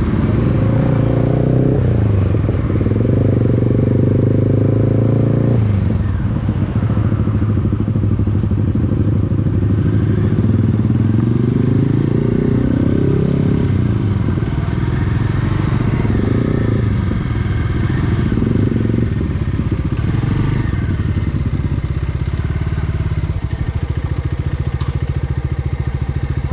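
Bajaj Dominar 250's single-cylinder engine running under way. Its pitch climbs in several sweeps near the middle as the bike accelerates through the gears, then settles back to a steady drone.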